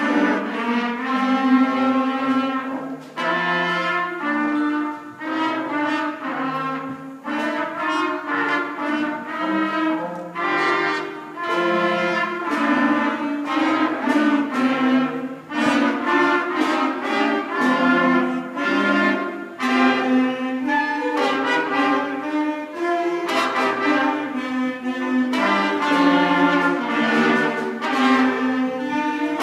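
Beginner school concert band playing a slow minor-key piece, with trumpets, clarinets, flutes and saxophones in parts, and steady percussion.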